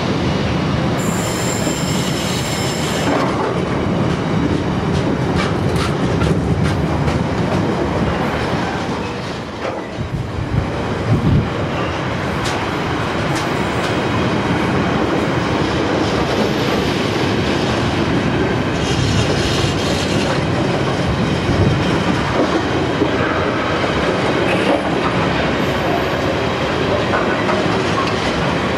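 Container wagons of an intermodal freight train rolling past, a continuous rumble and roar of steel wheels on rail with scattered clicks over rail joints. A high-pitched wheel squeal sounds at the start.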